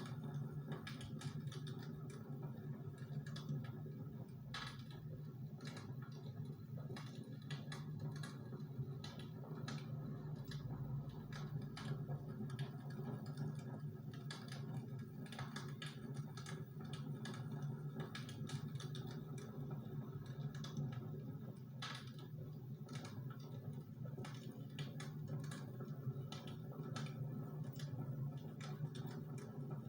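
Close-miked eating: irregular small crisp clicks and crunches of chewing and mouth sounds, over a steady low hum.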